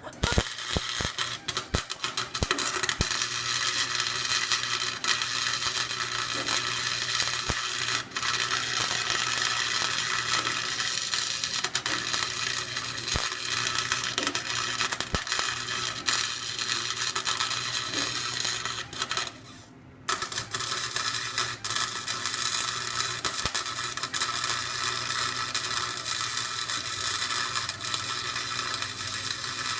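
Harbor Freight electric welder's arc crackling and spitting steadily over a low hum while welding the differential gears, locking the diff. The arc stops for about a second roughly two-thirds of the way through, then strikes again and carries on.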